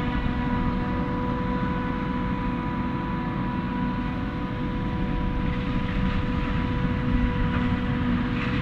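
Claas Jaguar 850 forage harvester running steadily at work, a constant whine over heavy engine noise.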